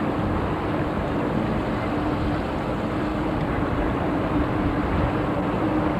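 A boat's engine running steadily under way: a constant drone with a low rumble and a faint steady hum.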